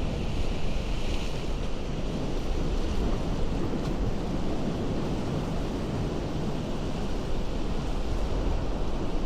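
Ocean surf against a rocky coast, a continuous rushing of water, with a brighter hiss of breaking foam in the first second or so. Wind rumbles on the microphone underneath.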